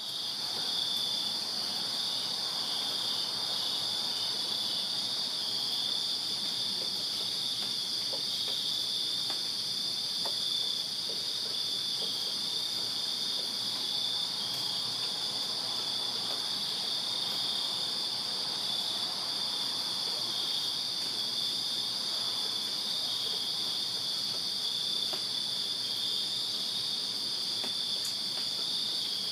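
Night chorus of crickets chirping in a steady, high-pitched, unbroken trill made up of two close pitches.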